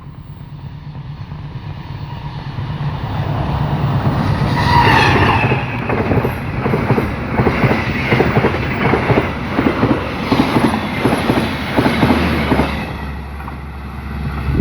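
A train approaching and passing close by: it grows louder over the first few seconds, then its wheels clack over the rail joints in a regular rhythm, over a steady low hum, before the sound falls away near the end.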